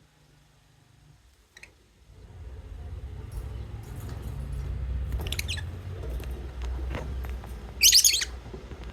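Lovebirds chirping: a few short calls, then a louder burst of quick chirps near the end, over a low rumble.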